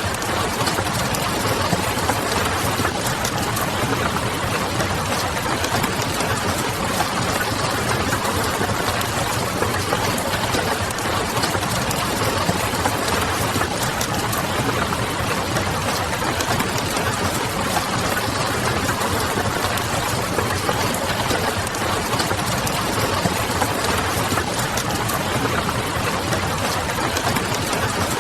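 Steady rain pattering mixed with the crackle of a wood fire, over a low, steady hum. The sound stays even throughout, with fine ticks scattered through it.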